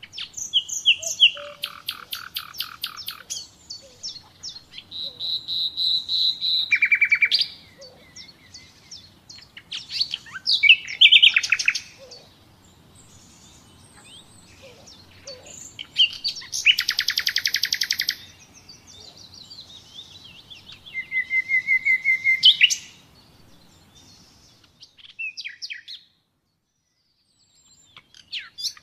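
Common nightingale singing in separate varied phrases: fast runs of repeated notes alternate with drawn-out whistles. There is a brief pause shortly before the end.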